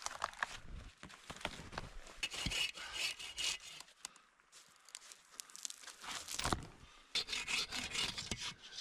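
Hand saw cutting wood in rough, irregular scraping strokes, with short pauses between runs of strokes.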